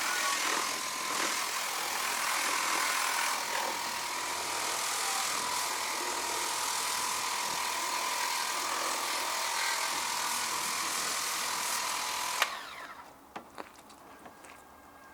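Lippert Power Pro Max 40-volt battery-powered pressure washer spraying water: a steady hiss of the spray over a steady whine from the pump motor. It cuts off sharply with a click about twelve seconds in, followed by a few faint clicks.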